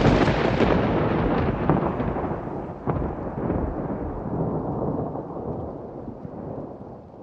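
A thunderclap: a loud, crackling rumble that starts suddenly, with a sharp crack about three seconds in, then slowly dies away into a low rumble.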